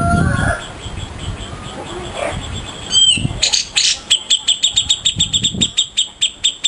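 A small songbird giving a fast, even run of sharp high chirps, about five a second, starting about three seconds in. A rooster's crow trails off at the very start.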